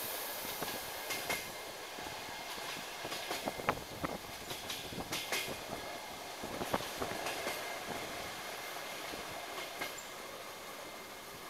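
Ride noise of a DR1AMv diesel railcar heard from inside the carriage: a steady rumble with irregular clicks and knocks of the wheels over the rail joints. It eases off toward the end as the train slows.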